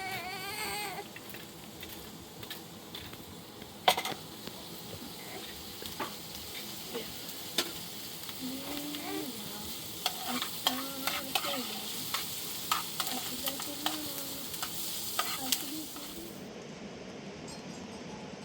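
Food sizzling in a hot pan while it is stirred, with scattered clicks and knocks of the utensil against the pan. A goat bleats briefly at the very start, and the sizzle drops off near the end.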